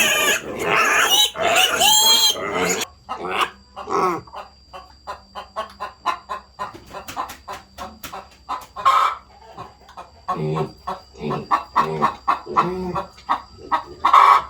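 Domestic animal calls, chickens clucking among them: loud cries that bend in pitch for about the first three seconds, then a run of short, quick clucks and peeps. A faint steady high tone runs underneath.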